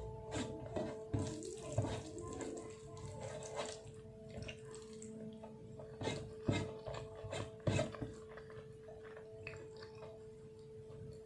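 Close-up mukbang eating sounds: wet mixing of food by hand and chewing, with a few sharp clicks in the first few seconds and again about six to eight seconds in, over a steady hum.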